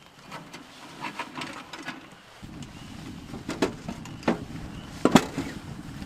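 Crackling and snapping of a freshly lit wood fire in a small camping wood stove: scattered cracks, with a few loud sharp pops in the second half. About two seconds in, a steady low rushing background comes in abruptly.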